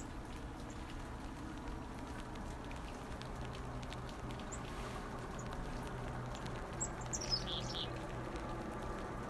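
Black-capped chickadees chirping: a few short high notes, then a quick run of notes falling in pitch about seven seconds in, over a faint steady background hiss.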